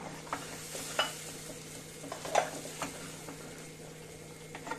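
Ground masala paste sizzling as it fries in ghee in a pan, with a spatula stirring it and knocking and scraping against the pan several times, loudest about one second and two and a half seconds in.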